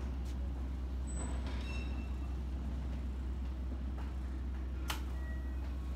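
Keikyu 600 series electric train standing at a platform, its onboard equipment giving a steady low hum. A brief high ringing tone comes about a second in, and a single sharp click comes near the end.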